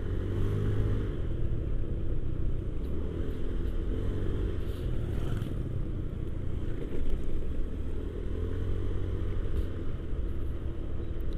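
Motorcycle engine running at low speed under a low rumble of wind on the microphone, its pitch wavering slightly as the rider picks his way along a rough, muddy road.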